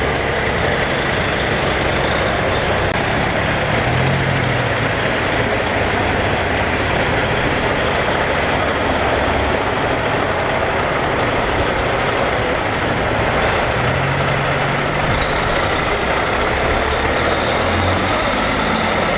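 Heavy diesel trucks driving past one after another, engines running, in a steady loud wash of noise. A low engine note swells as a truck passes about four seconds in and again near fifteen seconds.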